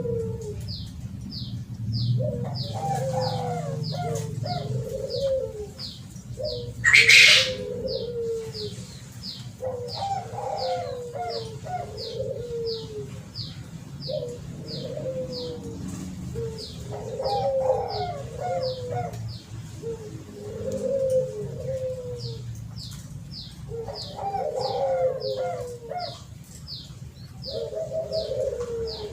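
Spotted dove cooing in repeated phrases, one every six to seven seconds, with a steady series of short high chirps about two a second behind it. A brief loud rustle about seven seconds in.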